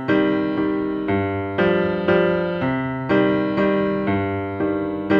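Music: a piano playing sustained chords, a new chord struck about twice a second.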